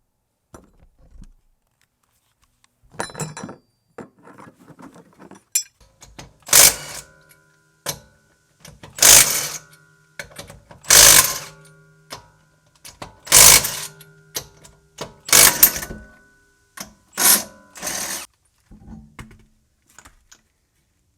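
A power impact wrench is run in about seven short bursts, loosening the wheel's lug nuts. A few lighter tool clatters come before it.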